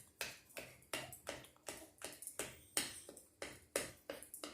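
Utensil chopping dog food in a dish: a steady run of sharp taps, about three to four a second.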